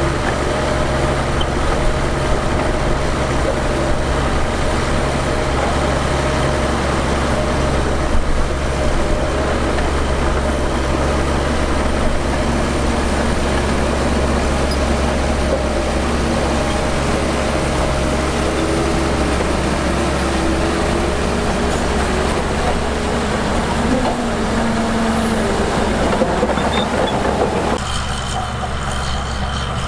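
Heavy diesel engine of earthmoving machinery running steadily, its sound thinning out near the end.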